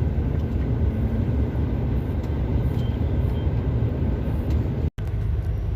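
Steady low rumble of a long-haul truck's engine and road noise heard inside the cab while driving, broken by a split-second dropout about five seconds in.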